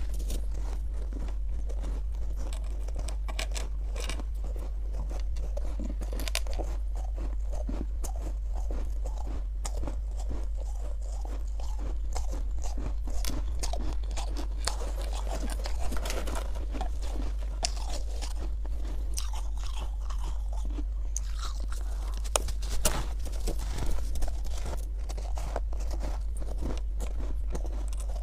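Soft, powdery freezer frost crunching as it is bitten and chewed close to a clip-on microphone: a dense, continuous run of small crunches with a few louder ones. A steady low hum runs underneath.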